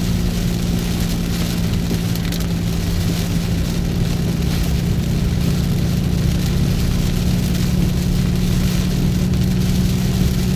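Car driving through heavy rain: a steady engine and road drone under the hiss and patter of rain hitting the vehicle.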